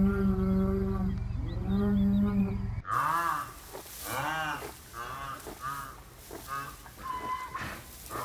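Animal calls: two long, low, steady-pitched calls over a low rumble, then a different animal giving a rapid series of short, higher calls that rise and fall, one every second or so.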